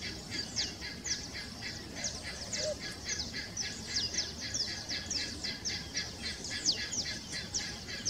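A bird's rapid, continuous song of short, high, falling notes, about four a second, too high for the picazuro pigeon's low cooing. A single faint low note sounds a little after two seconds in.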